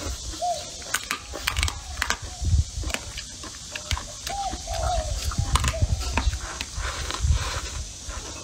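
Close-miked chewing and lip-smacking, with wet mouth clicks and low thumps as braised pork belly and vegetables are eaten. A few short rising-and-falling calls of an animal sound in the background, about half a second in and again about four and a half seconds in.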